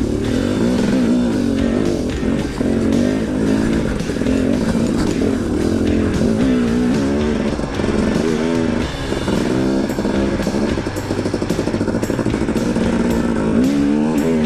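KTM 250 XC-W two-stroke dirt bike engine working through rough terrain, its revs rising and falling again and again as the throttle is blipped.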